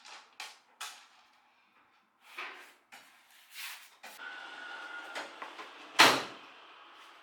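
Workshop handling noises: a few knocks and scrapes, a brief steady rasp with a faint whine around the middle, then one sharp loud knock about six seconds in.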